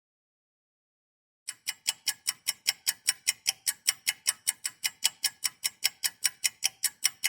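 Rapid, evenly spaced ticking like a clock, about five ticks a second, starting after a second and a half of silence and growing a little louder.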